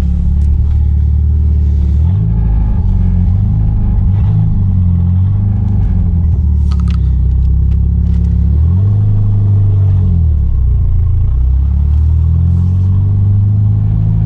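Turbocharged Mitsubishi G54B four-cylinder engine running. Its low drone steps up in pitch about two seconds in, then dips and climbs again around nine to ten seconds in, as the revs change.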